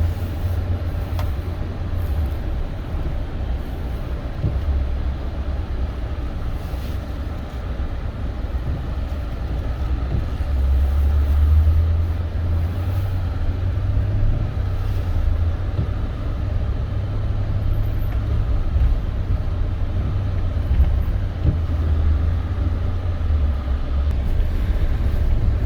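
Steady low rumble of a Toyota Tundra pickup driving, heard from inside the cab: engine and road noise with no speech.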